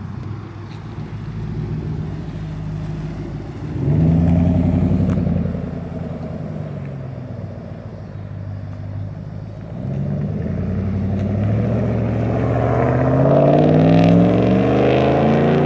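Dodge Ram Hemi V8 with a Y-pipe muffler delete (catalytic converters kept), exhaust rising as it accelerates about four seconds in, easing back, then climbing through the revs again from about ten seconds in, loudest near the end.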